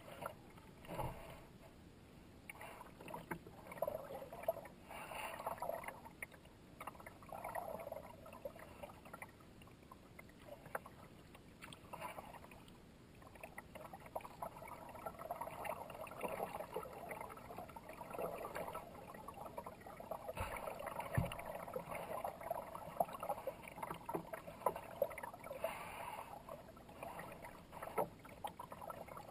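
Kayak paddle strokes splashing and dripping in uneven swells, with water running along the hull, and two short low knocks about two-thirds of the way through.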